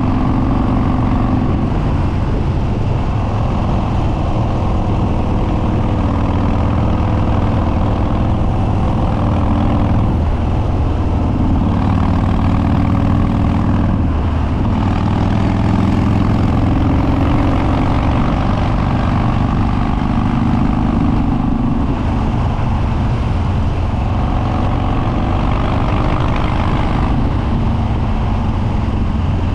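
Harley-Davidson Dyna Street Bob's Twin Cam V-twin, with Stage 2 cams, an open air filter and unbaffled upswept dual exhaust, running under way. The revs rise and fall several times as the bike is ridden.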